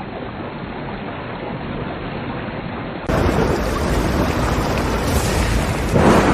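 Rain and thunder sound effect: a steady rushing of rain with low rumbling that swells gradually, turns suddenly louder and fuller about three seconds in, and surges again near the end.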